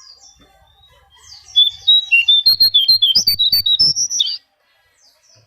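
Konin songbird singing: a loud, rapid run of about a dozen sharp chirps that climb in pitch and stop abruptly about four seconds in.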